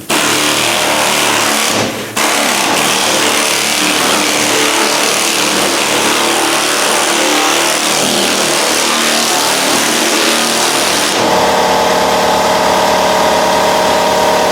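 Pneumatic straight-line sander (air file) with 40-grit sticky paper running and sanding a car body panel, a loud steady hiss and rasp with a short dip about two seconds in. About eleven seconds in a steady hum with several fixed tones joins in.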